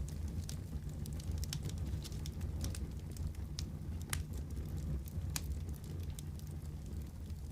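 Wood fire crackling: irregular sharp pops and ticks, several a second, over a steady low rumble.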